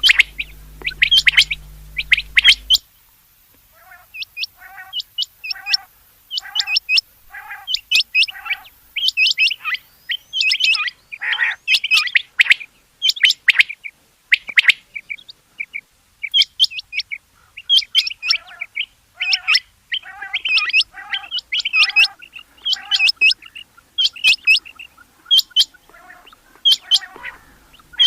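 Rain quail calling over and over: sharp, high call notes, often in quick pairs, interleaved with runs of lower, shorter notes, more than one call pattern overlapping. A low hum sits under the first few seconds and returns near the end.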